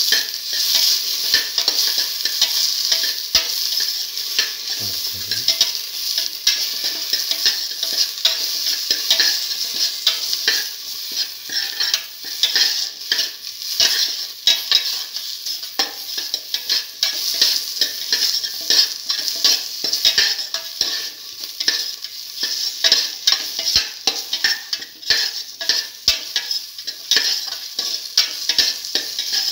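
Onion, shallots, garlic and ivy gourd slices sizzling in hot oil in a stainless steel pan. A metal spatula scrapes and clicks against the pan over and over as they are stirred.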